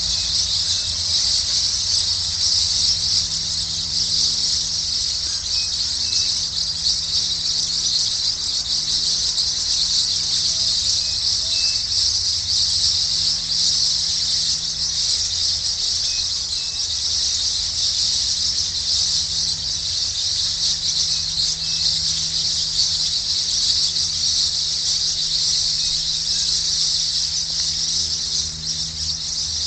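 Dense, continuous, high-pitched shrill chorus of many small animal calls blending into one even shimmer.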